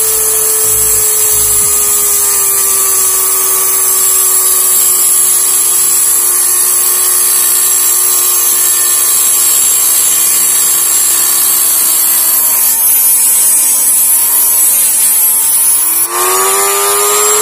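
Mini die grinder running under load while cutting through a die-cast metal toy car body: a steady motor whine with a high grinding hiss. The pitch sags gradually as the cut bogs the motor down, dips sharply near the end, then climbs quickly back up.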